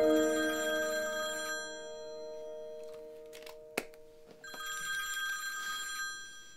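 Telephone bell ringing twice, one ring at the start and another about four and a half seconds in, while a held music chord fades underneath.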